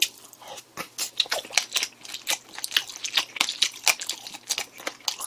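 A person chewing crunchy pork cartilage (ossolppyeo) close to a microphone: many irregular crunches, several a second.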